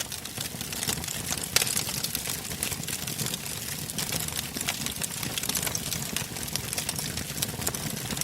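Wood fire burning in a fireplace: a steady low rush of flame with frequent sharp crackles and pops, one louder pop about one and a half seconds in.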